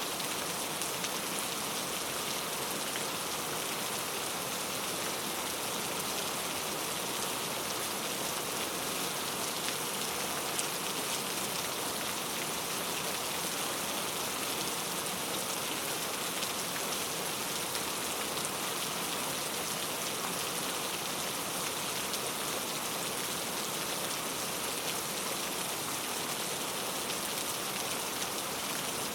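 Steady rain falling on forest foliage, an even hiss of many fine drops with no breaks or gusts.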